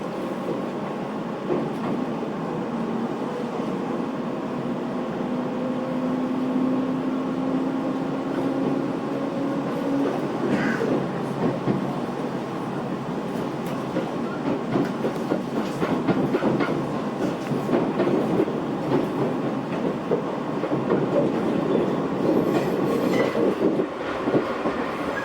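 Commuter electric train running, heard from inside the car: a steady rumble with a thin motor whine that rises slowly in pitch for about the first ten seconds, then rattling and clicking of the wheels over the rails.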